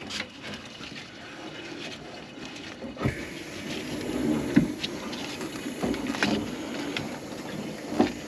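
Water running from a kitchen faucet into the sink as a steady hiss, which gets louder about three seconds in. A few short knocks and clunks come over it.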